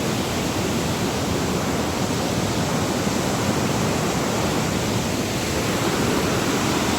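Waterfall on the Oyacachi river crashing down at full force: a loud, steady rush of falling water.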